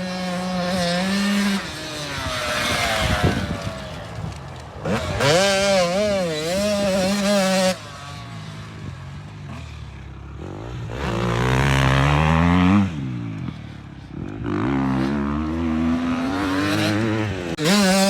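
Dirt bike engines revving on a motocross track, pitch rising and falling with throttle and gear changes, and one bike accelerating hard about halfway through. The sound changes abruptly several times, as if separate riding clips were cut together.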